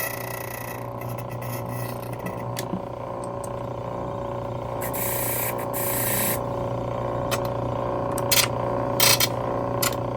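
Key-cutting machine running steadily, its cutter hissing in short bursts as it bites into a Ford 5-pin key blank: a longer cut about five seconds in and several brief ones near the end.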